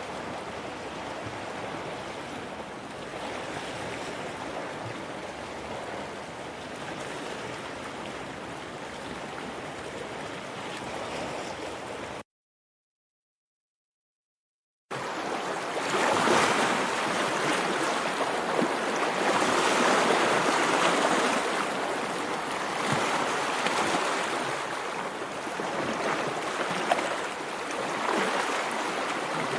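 Steady rushing-water ambience with no distinct events. It cuts to total silence for about two and a half seconds a little before the middle, then comes back louder and surging more.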